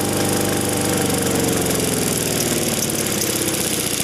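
Lawn mower engine running flat out with its throttle zip-tied wide open and its oil drained, being run to destruction. Its steady note sags slowly in pitch after about a second.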